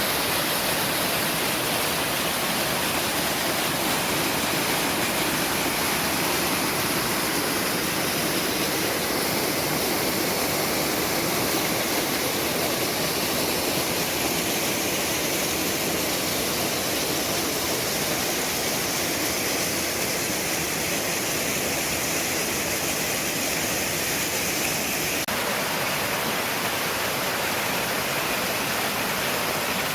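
Mountain stream water rushing steadily over rocks, a constant full-bodied wash of noise. The sound changes character slightly a little after three-quarters of the way through.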